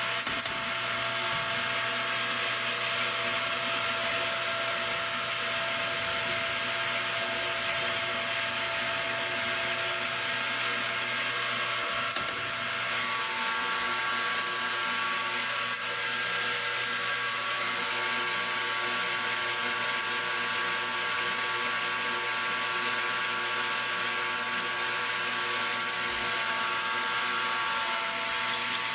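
Metal lathe running steadily while machining a small steel part, its motor and gearing giving an even hum with several fixed tones. A faint tick or two partway through.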